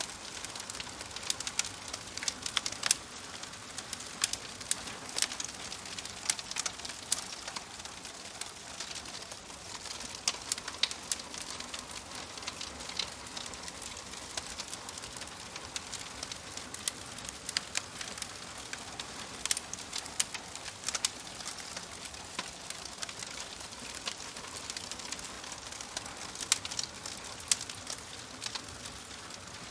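Wood fire crackling in a fireplace: a steady soft hiss with irregular sharp pops and snaps scattered throughout.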